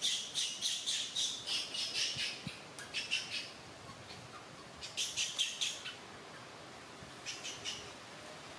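A bird chirping in quick runs of short, high chirps, about four or five a second, broken by pauses.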